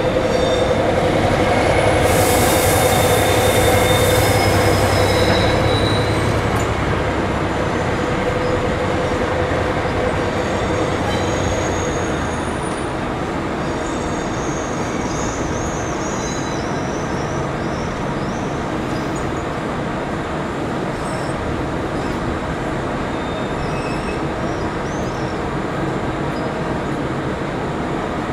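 A train moving slowly through the station, running with a steady rumble and faint high wheel squeals. A burst of hiss sounds about two seconds in, and the rumble eases after about twelve seconds.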